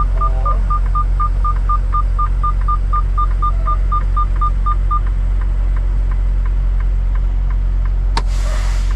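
Idling semi truck with a rapid warning beep, about four short beeps a second, that stops about five seconds in. Near the end a click and a brief burst of noise.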